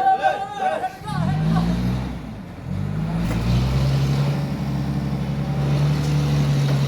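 Heavy diesel engine revving up and then running steadily under load.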